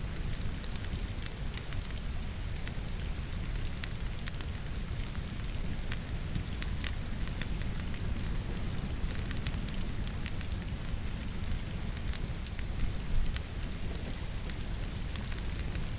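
Firewood crackling and popping in a fireplace, with sharp irregular snaps scattered throughout and a cluster of louder pops about 13 seconds in, over a steady bed of falling rain.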